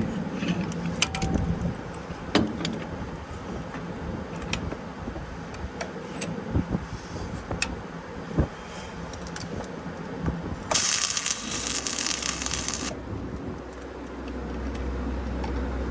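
Scattered metal clinks and knocks as steel parts are handled and fitted. About eleven seconds in, a hiss starts and stops abruptly about two seconds later. A low hum sets in near the end.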